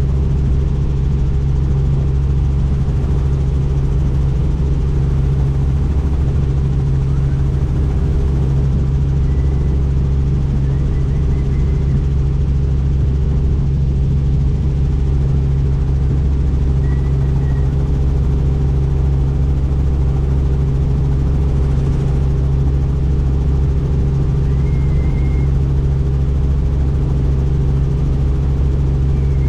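Helicopter in flight: the steady, unbroken drone of the rotor and engine. A few faint, brief high tones come and go over it.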